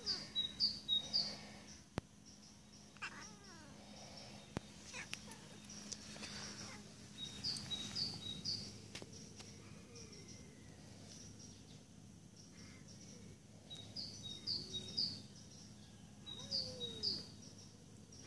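Bird song: a short, high chirping phrase repeated about every six seconds, with a few lower, drawn-out gliding calls in between.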